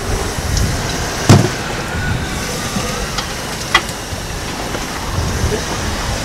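Steady rumble and rush of a fishing boat underway, its engine mixed with wind and water noise. A sharp knock about a second in and a lighter click near the middle.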